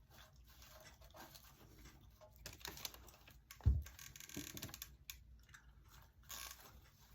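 Faint rustling and light crackly taps of dry raffia being handled and pressed into place while it is glued down, with one soft low thump about three and a half seconds in.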